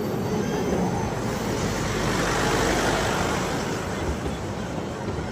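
Vande Bharat Express electric train running, a steady rush of wheel and air noise that builds to a peak about halfway through and then eases off.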